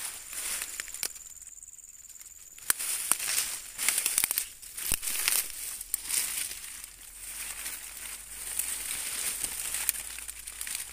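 Irregular crunching and rustling of footsteps and hands moving through dry leaves and undergrowth, with no steady rhythm.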